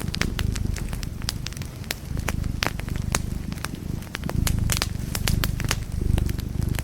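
Wood fire crackling in a fireplace, with many sharp irregular pops and snaps over a steady low rumble.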